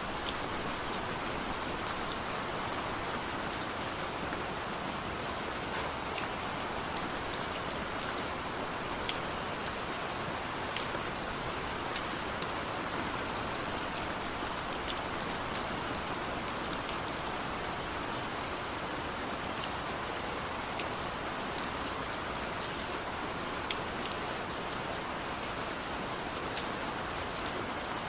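Steady rain falling, a constant hiss with scattered sharper drops ticking on a hard surface.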